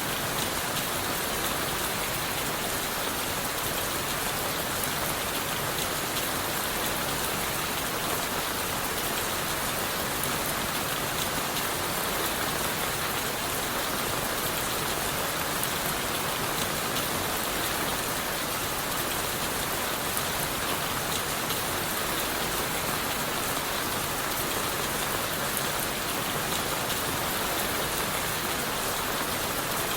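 Steady rain falling on leaves and wood, an even, unbroken hiss flecked with the patter of individual drops.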